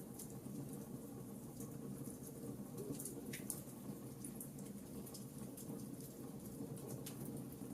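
Wood fire crackling in a fireplace: irregular small snaps and pops scattered over a steady low rumble of burning.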